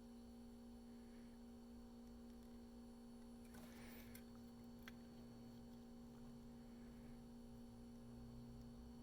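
Near silence with a faint steady hum. A brief faint rustle comes about three and a half seconds in, and a single small click about a second later.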